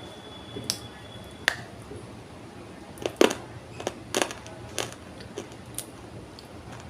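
Dry pieces of multani mitti (Fuller's earth clay) being crunched: a series of about eight sharp, crisp cracks and snaps. The loudest cracks fall around three to four and a half seconds in.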